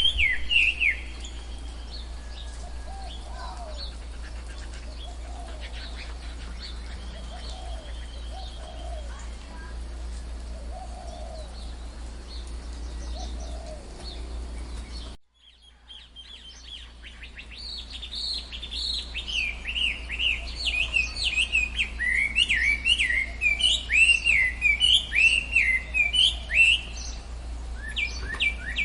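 Tropical forest birds calling. Sharp falling chirps open, then softer low calls repeat over a steady low rumble. About halfway the sound drops out abruptly, and rapid repeated chirping builds up again and grows loud.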